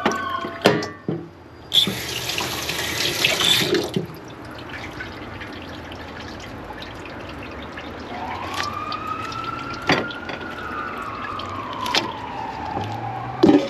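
Kitchen tap running into the sink for about two seconds, with a few knocks around it. Later a siren wails, slowly rising and then falling in pitch, and starts to rise again near the end.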